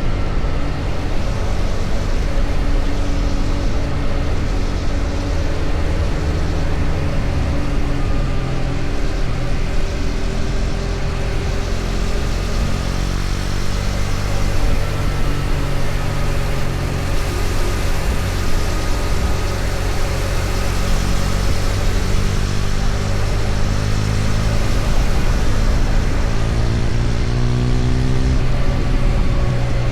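KTM Duke 250 single-cylinder engine running at road speed under a heavy rush of wind and road noise. Its pitch shifts up and down, rising near the end as the bike accelerates.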